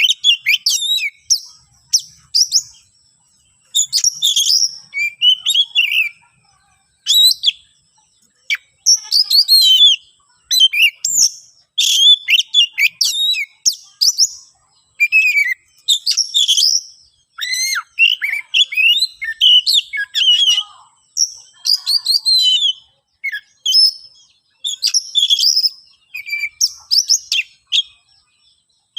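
Oriental magpie-robin (kacer) singing in quick bursts of varied high whistles and chattering notes, with short pauses between phrases. This is agitated fighting song, the kind that provokes a rival bird.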